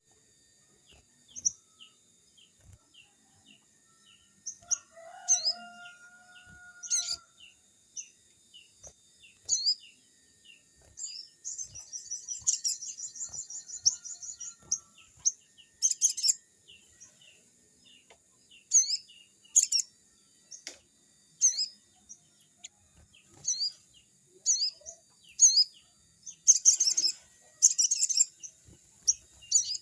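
Crested jay calling: a string of short, sharp high notes, a rapid rattling trill lasting a few seconds near the middle, and bursts of harsh chatter near the end. A lower whistled note is heard about five seconds in.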